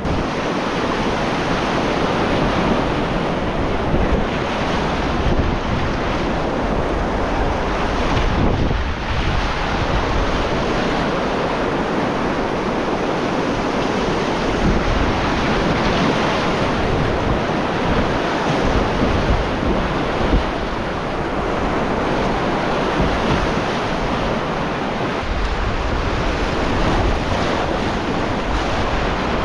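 Whitewater of a mountain creek rapid rushing steadily, with wind buffeting the microphone.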